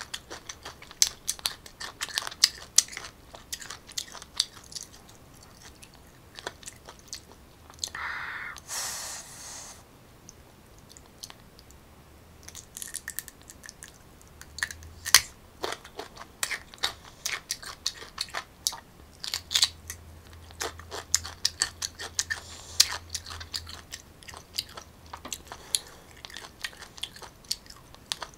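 Close-up crunching and chewing of raw unripe green mango: many crisp bites and crunches, with a short hiss about eight seconds in.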